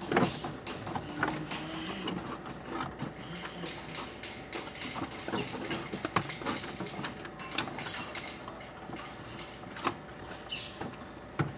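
Irregular clicks and metallic knocks of hand tools working on a Nissan pickup's engine during a fan-belt replacement, with no steady engine sound.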